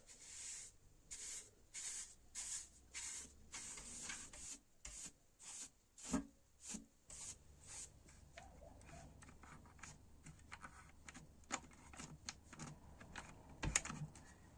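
Hands working on old vacuum cleaner parts: a run of short rubbing or brushing strokes, about two a second, then scattered light clicks. Two sharper knocks stand out, one midway and one near the end.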